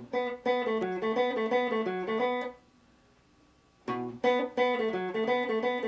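Guitar picking a fast single-note riff on B, B, B, A, F sharp, A, played twice with a short silent pause between the two runs.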